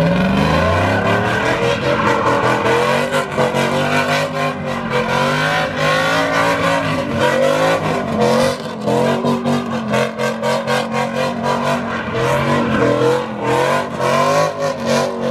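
A vehicle's engine revving hard, its pitch rising and falling over and over as it spins donuts, with tyres squealing.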